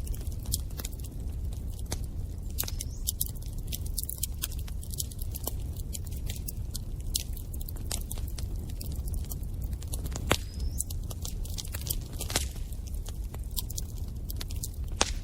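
Bonfire crackling: many irregular sharp snaps over a steady low rumble of burning, with a few louder pops about ten and twelve seconds in and near the end.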